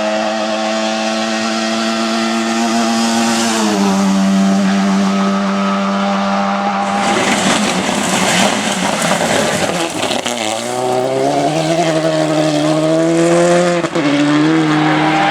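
Rally car engine held at high, steady revs, the pitch dipping slightly about four seconds in. About halfway through, a loud rushing noise takes over for a few seconds, then the engine pulls again with revs rising and falling and a sudden drop near the end.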